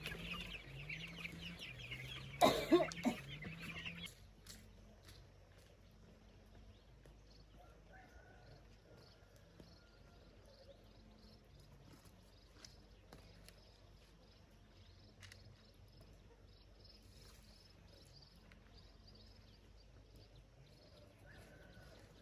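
Chickens clucking with high cheeping, loudest over the first few seconds, with one sharp loud knock about two and a half seconds in. After that it drops to faint occasional calls and clicks.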